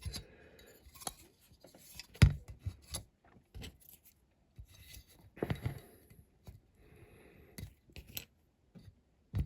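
Small clicks, taps and rustles of hands working a thin stick into a diecast toy car body on a workbench, with a sharp knock about two seconds in and another cluster of knocks midway.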